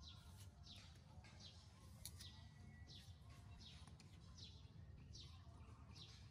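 Faint high chirps, each falling in pitch, repeated evenly about every three-quarters of a second: a bird calling over a low background hum.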